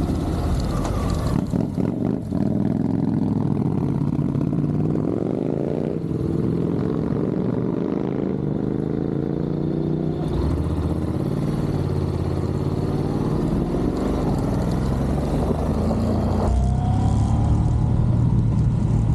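Motor scooter engine, likely the Honda Forza 750's parallel twin, pulling under acceleration with wind noise. The engine pitch rises, drops sharply about six seconds in as it shifts up, and climbs again.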